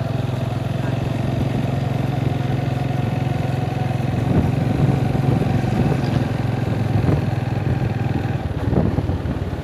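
Small motorcycle engine running steadily while being ridden. Its note eases off near the end.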